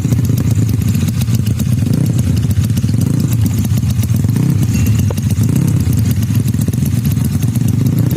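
Tuned Yamaha Mio scooter's engine running at low revs through an open racing exhaust, with a fast, even beat of exhaust pulses.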